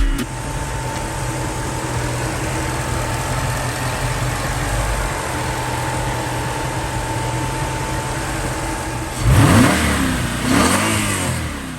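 Nissan VH45 4.5-litre V8 idling steadily, then blipped twice near the end, each rev rising and falling quickly.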